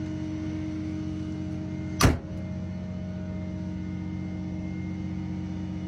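A car hood slammed shut once, loud and sharp, about two seconds in, over a vehicle engine idling steadily.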